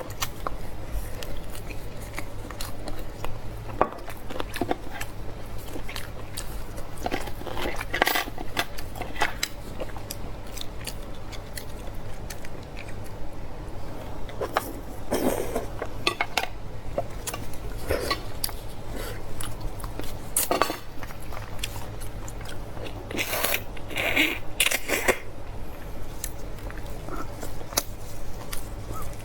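Close-miked eating of beef bone marrow: chewing and biting with many small clicks of utensils against a dish, louder clusters of eating noise several times, over a steady low hum.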